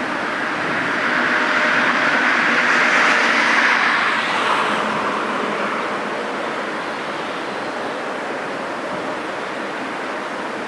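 A vehicle going past: a rush of noise that builds to a peak about three to four seconds in, then fades to a steady hiss.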